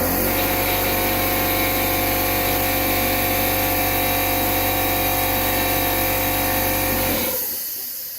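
Power tool motor running steadily at a constant pitch for about seven seconds, then cut off, with a high whine fading away as it spins down.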